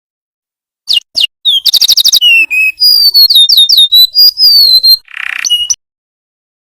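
Golden-bellied gerygone (remetuk laut) singing a phrase of high, mostly downward-sliding whistles, with a fast trill and a short buzzy note near the end. The song starts about a second in and cuts off suddenly after about five seconds.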